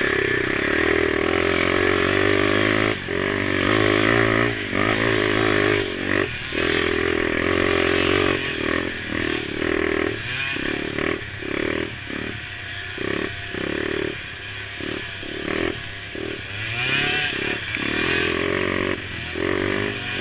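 Mini quad engines running, the throttle cut and reopened many times, so the engine note keeps breaking off and coming back.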